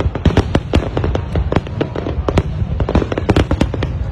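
High-altitude aerial fireworks bursting in rapid succession: a dense run of sharp bangs and crackles, many a second.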